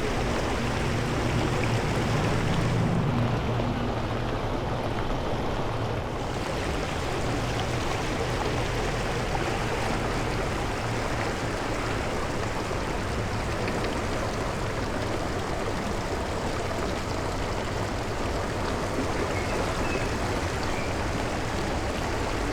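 Steady rush of fast-flowing, swollen floodwater. A few seconds in, a low rumble swells for about three seconds while the higher hiss dips.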